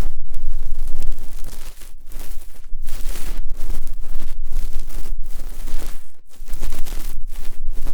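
ASMR ear-cleaning sounds: an ear pick scraping and rubbing close against the microphone, loud crackly strokes broken by short pauses.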